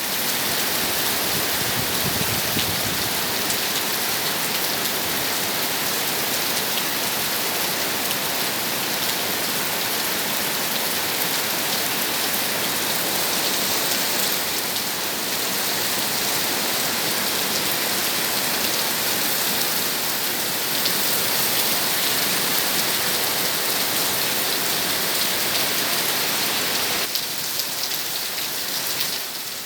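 Heavy, steady rain falling and pattering on surfaces, an even hiss that holds throughout, easing slightly near the end.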